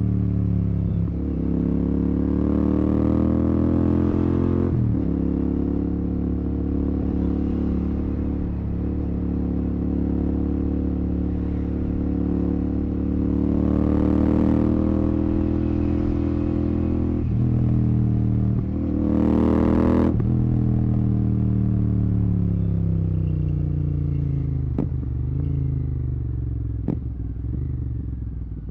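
Royal Enfield Continental GT 650's parallel-twin engine through a Red Rooster aftermarket exhaust with no dB killer, pulling through the gears. The pitch climbs and breaks at each shift several times and peaks a little past the middle. It then winds down as the bike slows, with a few sharp clicks near the end.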